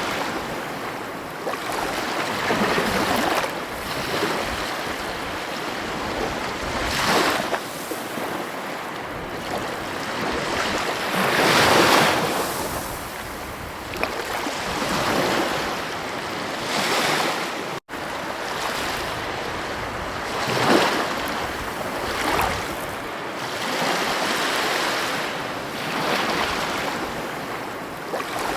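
Ocean waves breaking and washing on a shore, surging and easing every few seconds. There is a split-second dropout about two-thirds of the way through.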